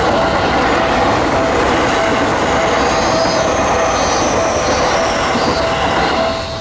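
Seibu Shinjuku Line electric train passing over a level crossing, loud wheel-on-rail noise, while the crossing's warning bell keeps ringing in a steady repeated tone. A thin high wheel squeal joins about halfway through, and the train noise falls away at the very end, leaving the bell.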